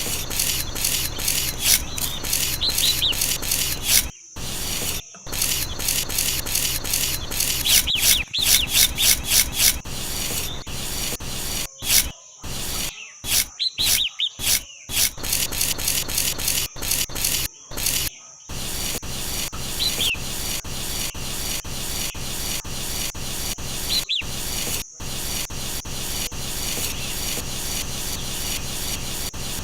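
Rapid, repeated rubbing or scraping strokes, several a second, in runs broken by short pauses, with birds chirping briefly now and then.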